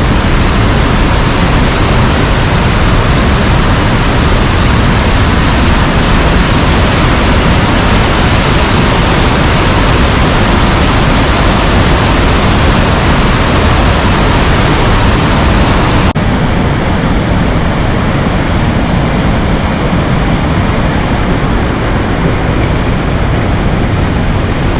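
Waterfall in extreme flow after heavy rain: a loud, steady rush of falling water. About two-thirds of the way through, the hiss thins out abruptly and the rush goes on a little duller.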